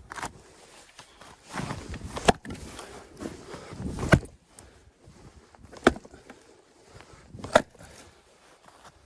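An axe striking firewood: four sharp wooden knocks about two seconds apart, with scuffing and footsteps between the blows.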